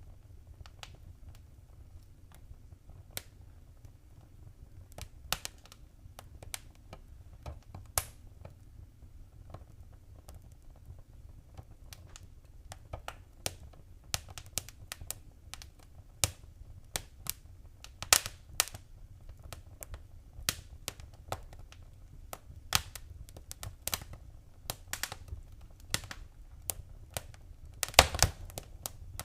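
Wood fire crackling in a fireplace: irregular sharp pops and snaps over a low steady rumble, growing busier later on with a quick cluster of pops near the end.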